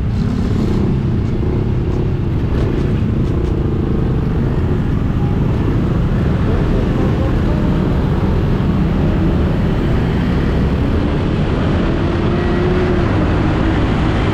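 Motorcycle riding in traffic: steady wind buffeting on the camera's built-in microphone, with the engine running underneath and its note shifting a little.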